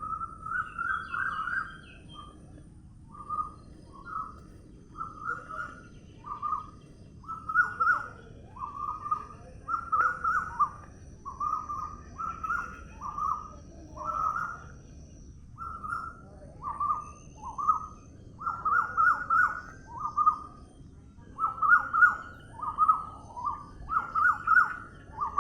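A bird calling over and over in short, clear notes, about one or two a second and sometimes in quick runs of three or four, over a steady low background hum of outdoor ambience.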